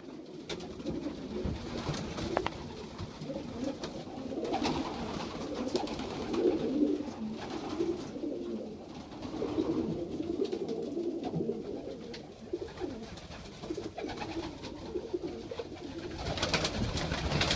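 Many pigeons cooing in a small loft, overlapping low coos that swell and fade, with occasional light clicks and taps.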